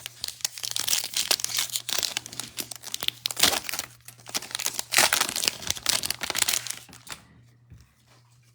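Foil trading-card pack wrapper being torn open and crinkled in the hands, in two spells of crackling that fade out about seven seconds in.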